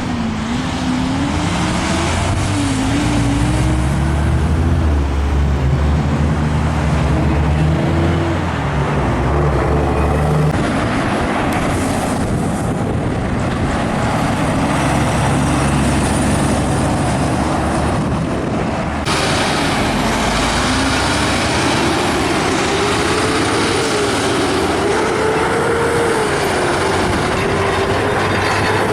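Heavy trucks and other traffic passing on a highway: diesel engines running under road and tyre noise, the engine pitch wavering up and down. A deep engine note fades about ten seconds in, and another engine tone rises near the end.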